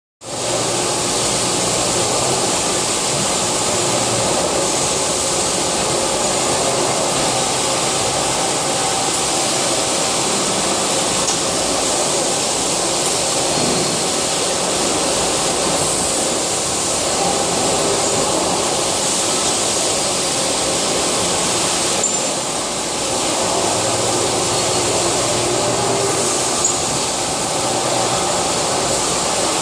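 CNC lathe running through a turning operation, a steady loud whirring hiss with a brief dip about two-thirds of the way through.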